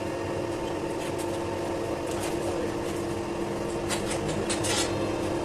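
Machine running with a steady hum. A few short, high rasping strokes come about four seconds in.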